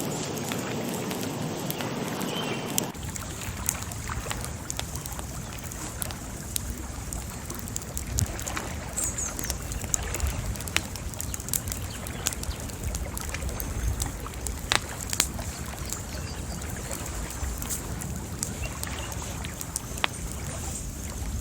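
Outdoor nature ambience: a low wind rumble with scattered sharp clicks and pops, and one faint high chirp. The sound changes about three seconds in.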